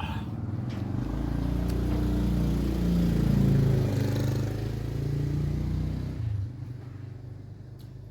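A motor vehicle's engine going by, growing louder to a peak about three and a half seconds in, then fading and dropping away about six seconds in.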